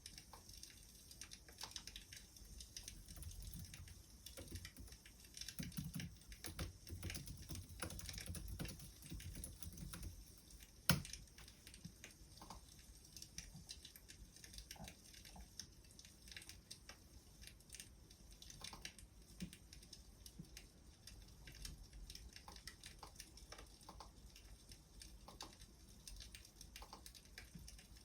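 Wood fire crackling faintly: scattered small snaps over a light hiss, with one sharp pop about eleven seconds in.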